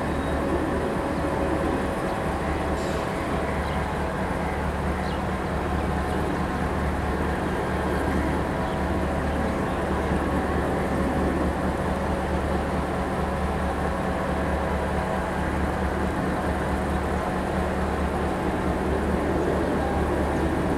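Bangladesh Railway passenger train moving slowly: a steady low rumble with a constant droning hum that holds the same pitch throughout.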